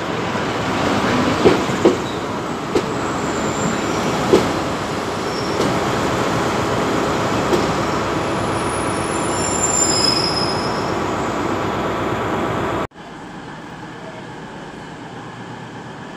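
Diesel multiple-unit passenger train running along the platform: a steady rumble with sharp wheel clicks over rail joints and a few brief high wheel squeals near the middle. About 13 seconds in, the train sound cuts off abruptly to a much quieter, steady station background.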